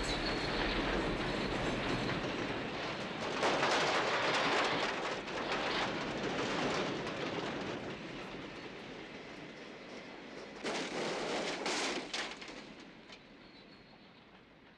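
Rumble and clatter of a train running on the rails, slowly dying away, with a short louder rattling stretch near the end before it fades out.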